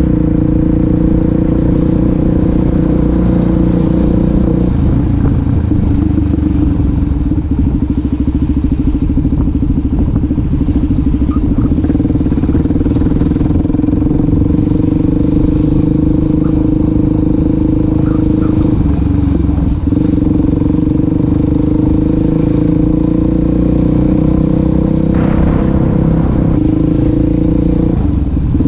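Suzuki DR-Z400SM's single-cylinder four-stroke engine running steadily at a moderate speed while riding, with small shifts in pitch as the throttle changes.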